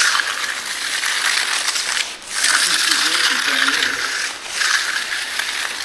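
Steel hand trowel scraping across a setting concrete slab in long sweeping strokes, three strokes of about two seconds each with short breaks between them.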